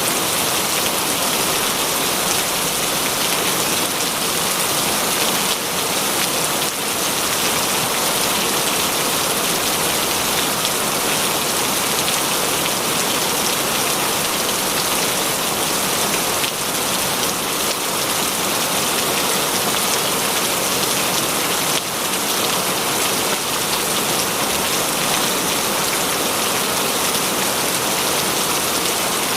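Heavy rain falling steadily, a dense even hiss of many drops on surfaces.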